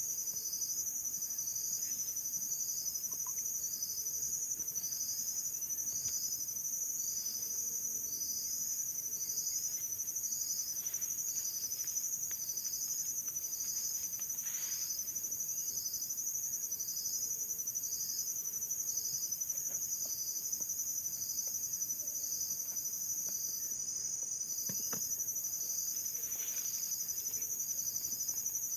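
Chorus of insects such as crickets: a steady high-pitched trill with a repeated chirp about every three-quarters of a second.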